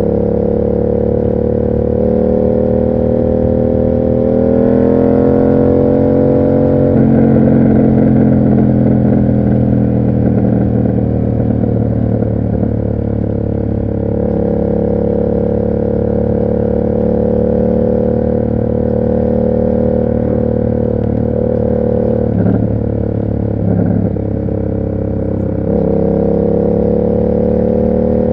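Yamaha MT-07's parallel-twin engine running through an SC Project aftermarket exhaust under way. The revs climb for a few seconds, fall sharply about seven seconds in, then hold steady, with two brief dips and another climb near the end.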